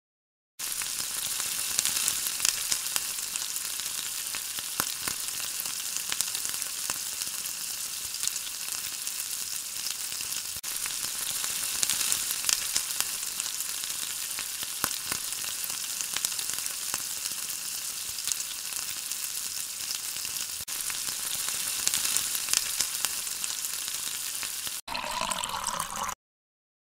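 Sliced onions sizzling in hot oil in a pan, a steady frying hiss with occasional clicks of a spoon stirring them. Near the end the sizzle cuts off and a thin white batter pours briefly into the pan.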